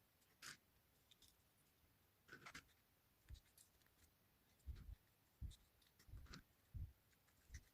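Faint, scattered small clicks and soft low taps from hands handling small miniature pieces on a work surface, the taps coming about once every second in the second half.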